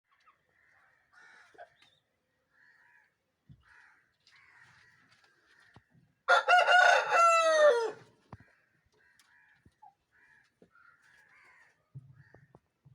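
A rooster crowing once, a call of about two seconds that drops in pitch at the end, over faint scattered bird chirps.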